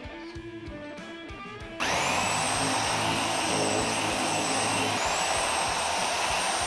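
An electric power tool starts about two seconds in, its high motor whine rising as it spins up, then runs steadily with a brief dip and recovery near five seconds, over guitar music.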